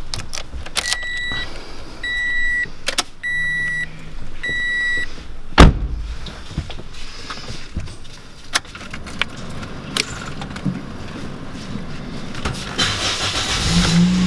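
A vehicle's warning chime beeping four times, each beep about half a second long, among clicks and handling noises as a vehicle is readied to leave. About five and a half seconds in comes a single loud thump, like a door shutting.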